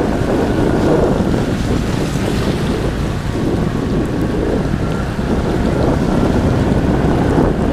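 Heavy wind buffeting the microphone on a moving motorbike in the rain, a steady loud noise concentrated low.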